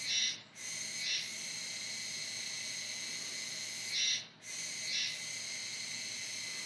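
A Kuroiwa-tsukutsuku cicada (Meimuna kuroiwae) singing its "juwa, juwa" autumn call. It is a continuous high buzz, with louder phrases in pairs about a second apart, the pairs coming about every four seconds and each broken by a brief drop-out.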